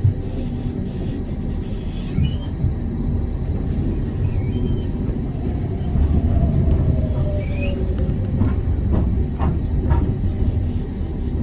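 Amsterdam tram running along the rails, a steady low rumble that grows a little louder about halfway through. Three brief high squeaks and a few clicks come over it.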